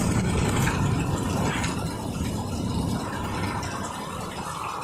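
Rolling thunder over rain: a deep rumble that is strongest for the first few seconds, then dies away.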